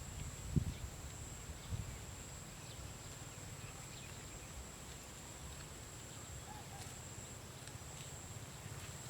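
Quiet open-field ambience: a steady low rumble of wind on the microphone, two dull thumps in the first two seconds, and a steady thin high-pitched whine throughout.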